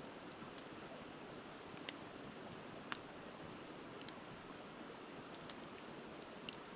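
Wood campfire crackling with scattered sharp pops, the loudest about three seconds in, over the steady rush of river water.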